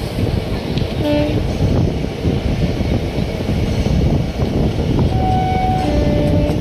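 Moving train's running noise heard from aboard, a loud, steady, low rumble. Short horn tones sound briefly about a second in, and again for over a second near the end.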